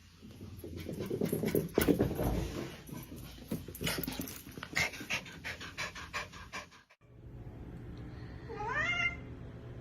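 Several seconds of scuffling noise with many sharp clicks, then, after a sudden break, a cat meows once near the end, rising in pitch.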